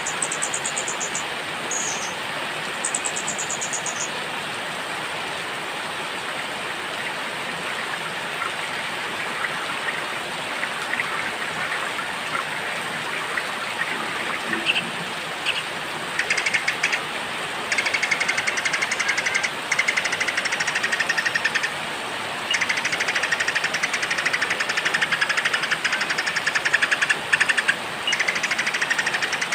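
Steady rain hiss with small songbirds' rapid, buzzy trills: short high trills in the first few seconds, then long, fast-pulsed trills from about halfway on that become the loudest sound.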